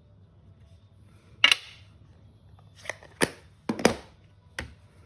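A handful of short, sharp clicks and taps as paper-craft supplies are picked up and set down on a craft table, the first and loudest about one and a half seconds in.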